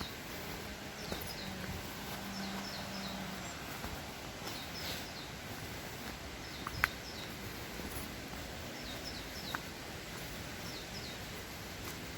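A small bird singing: a short phrase of two or three quick falling notes, repeated every second or two over a steady outdoor hiss. Two sharp clicks sound about halfway through.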